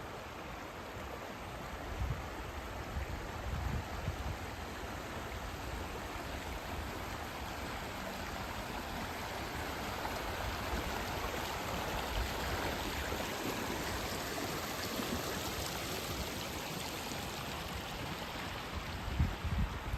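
River water flowing with a steady rush, swelling a little toward the middle.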